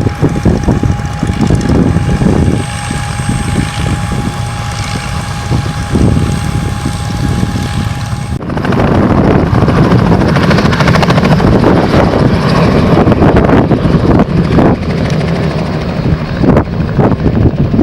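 Propeller aircraft engine running, with wind on the microphone. About eight seconds in, the sound changes suddenly from a steady drone with a held tone to a rougher, noisier rush.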